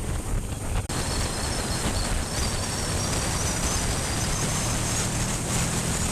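Heavy wind noise from riding a motorcycle, buffeting an action camera's built-in microphone, with the motorcycle running underneath. The sound changes abruptly about a second in, then continues as a steady rush with a faint high whine.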